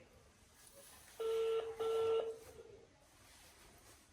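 Telephone ringback tone on a phone's loudspeaker: a double ring, two short low steady beeps in quick succession about a second in, starting again at the end, as the call keeps ringing after the network's busy-on-another-call message.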